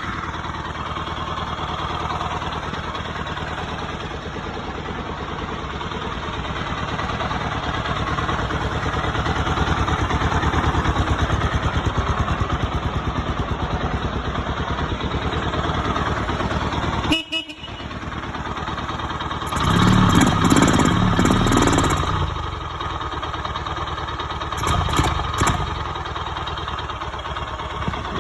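Single-cylinder engine of a 2006 Suzuki LS650 Boulevard S40 running just after starting, with a steady firing rhythm. Louder stretches come about twenty seconds in and again a few seconds later.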